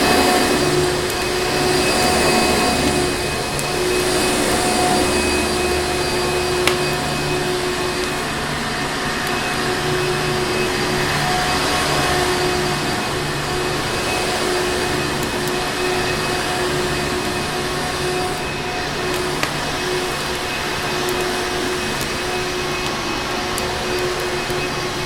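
Vacuum cleaner motor running steadily, a dense whooshing hiss with a constant whine, and a few faint sharp crackles from a fireplace.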